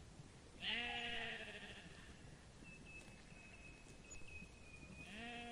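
Sheep bleating: one drawn-out bleat about half a second in, then another starting near the end.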